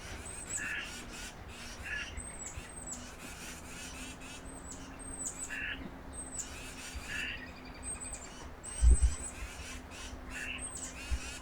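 Wild birds calling: harsh, crow-like calls repeating every second or two, over many short, high, thin chips from small birds. A single low thump about nine seconds in is the loudest sound, and a faint steady hum runs underneath.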